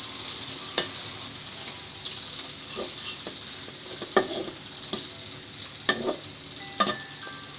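Minced chicken breast and prawn frying in oil with a steady sizzle while a wooden spoon stirs them round a metal pan, scraping and knocking against it several times.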